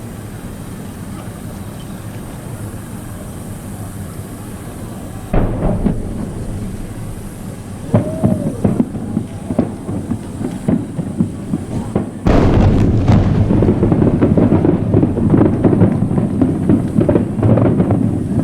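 Aerial fireworks: a first loud boom about five seconds in, then scattered shell bursts and crackling with a short whistle about eight seconds in, building into a dense, continuous barrage of booms and crackle from about twelve seconds on.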